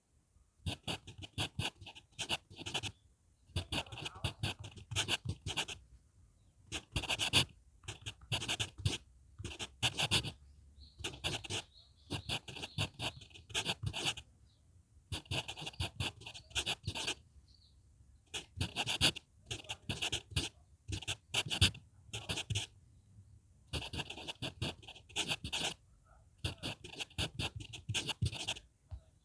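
HB pencil writing on manuscript paper: quick scratchy strokes in short bursts of a second or two, with brief pauses between characters.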